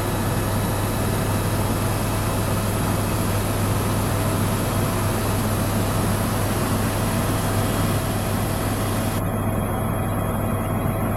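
Tour helicopter's engine and rotor running steadily, heard from aboard: a constant low hum under a rushing hiss.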